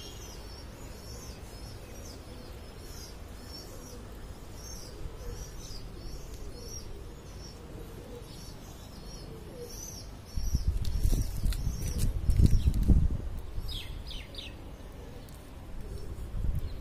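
A small bird chirping over and over, about twice a second, with a few falling calls later on. About ten seconds in, a loud low rumble lasting some three seconds covers it.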